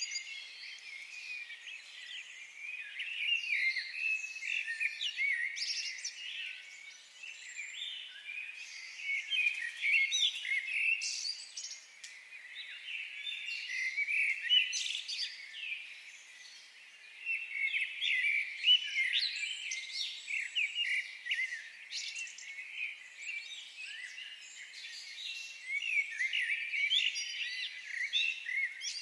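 Many songbirds chirping and trilling at once in a busy dawn-chorus-like chatter, with dense overlapping high calls and no low sounds.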